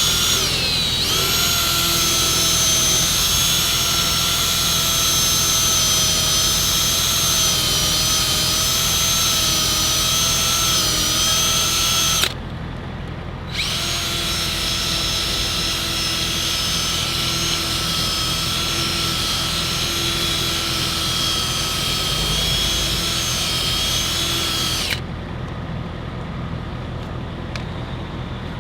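Electric drill spinning a foam polishing ball with polish on a truck headlight lens at full speed, a steady high whine. It stops for about a second near the middle, runs again, and stops a few seconds before the end, leaving a low steady hum.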